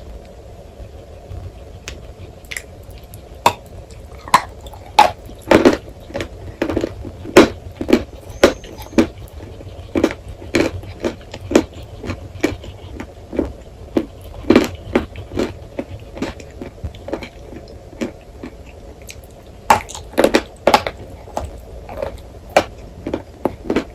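Chewing of dry edible chalk close to the microphone: sharp, irregular crunches, a few scattered at first, then one or two a second, with a pause of about two seconds before a fresh run near the end, over a steady low hum.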